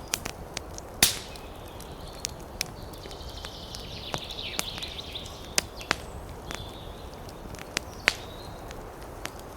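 Wood fire crackling in a fireplace: irregular sharp pops and snaps over a steady low flame noise, the loudest pops about a second in and about eight seconds in, with a high hiss for a couple of seconds in the middle.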